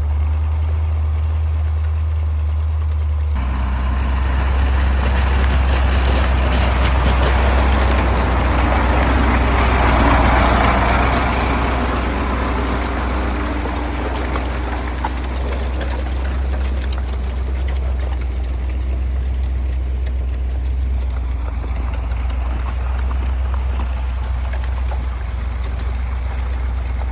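1985 KAMAZ 4310 6x6 truck's V8 diesel running steadily while driving off-road. About three seconds in the sound changes abruptly, and a louder rushing noise builds, peaks around ten seconds in and fades out by about sixteen seconds.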